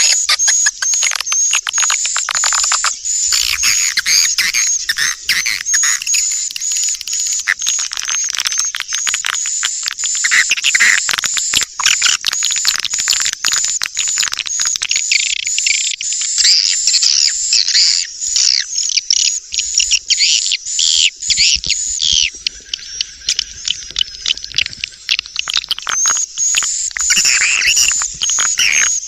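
Swiftlets twittering: a dense, continuous chorus of high chirps and rapid clicks. This is a swiftlet calling (lure) sound, the kind played in swiftlet houses to draw the birds in to nest.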